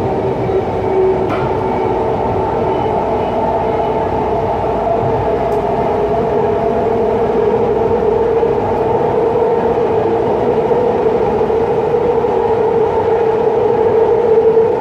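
BART train running, heard from inside the car: a steady, loud rumble with a droning tone that gets a little louder near the end.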